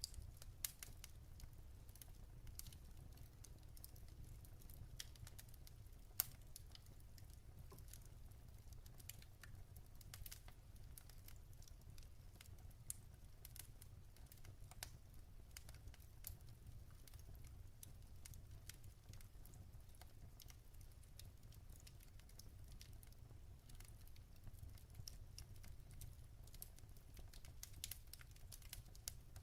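Wood fire in a fireplace crackling faintly: many small, irregular pops and ticks, with a couple of louder pops near the start and about six seconds in, over a low steady rumble.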